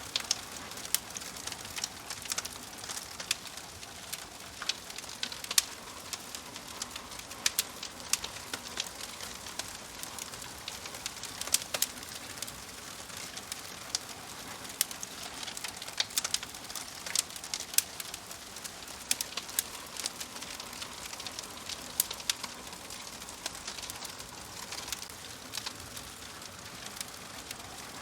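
Wood fire crackling: a steady hiss with irregular sharp pops and snaps, several of them loud.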